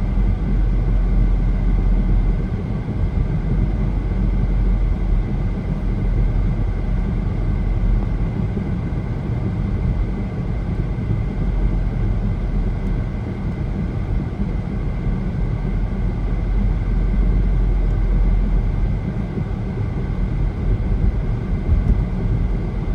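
Steady road and tyre noise of a car at highway speed, heard from inside the cabin, a constant low rumble with a faint steady high tone above it.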